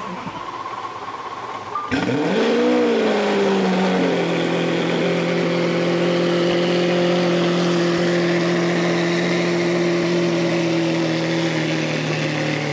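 Twin-turbo Lamborghini engine being cranked. About two seconds in it fires with a sudden start, flares up in revs and falls back, then settles into a steady idle.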